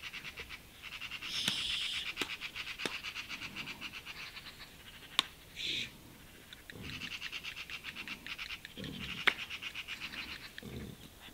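A bird's rapid chattering trill, in two long stretches, with two sharp clicks partway through and a few low, short sounds underneath.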